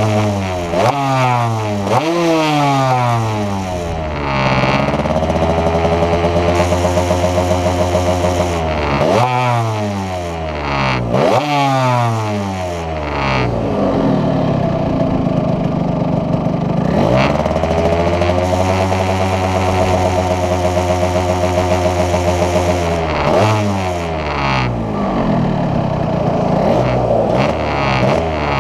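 Yamaha RD 135's single-cylinder two-stroke engine running under way. Its pitch jumps up suddenly about six times and falls away slowly between them, with stretches of steady cruising.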